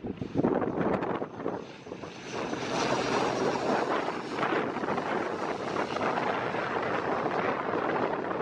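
Twin-turboprop engines of a CASA C295M military transport aircraft running; the sound grows about two seconds in and then holds steady. Gusting wind on the microphone is heard early on.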